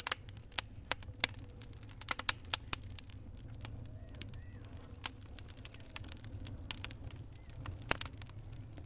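Wood fire crackling: irregular sharp pops and snaps over a low steady rumble, with a burst of louder pops about two seconds in and another near eight seconds.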